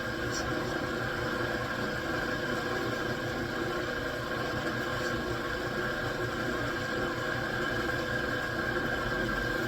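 Metalworking machine tool running steadily: a continuous motor hum with a steady high whine.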